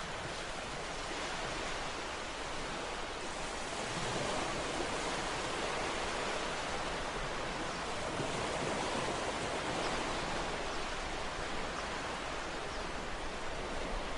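Ocean waves breaking on a shore, a continuous wash of surf that swells slightly and recedes.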